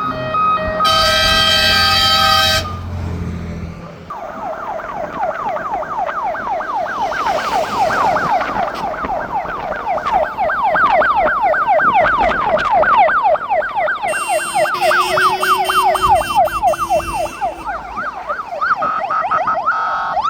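Fire engine's air horn sounding a steady blast of about two seconds near the start, then a siren in a fast yelp, rising sweeps repeating several times a second, with a second horn sounding over it partway through.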